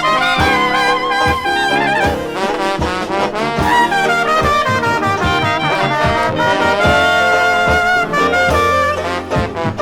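Dixieland jazz band playing at a slow, easy tempo, with trumpet and trombone lines weaving over a steady rhythm section, from a vinyl LP.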